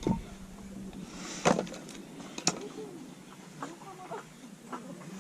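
Firewood being split: three sharp knocks, near the start, about a second and a half in and a second later. Faint bird calls follow in the second half.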